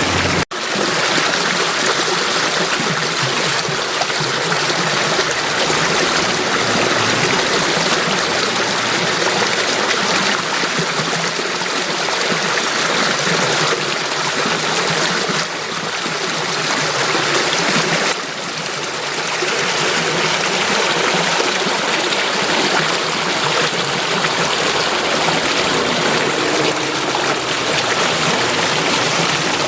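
Running water, a stream flowing steadily with a continuous rushing, trickling hiss. It cuts out for an instant about half a second in, then carries on.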